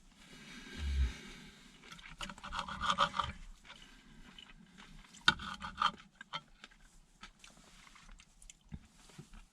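Scraping and small clicking knocks from food and dishes being handled during a meal, in two busy spells, with a low thump about a second in.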